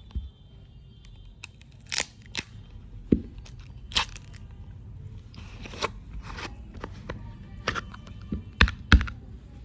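Product packaging being handled and opened by hand: irregular sharp clicks, taps and crinkles, with a short stretch of rustling about halfway through.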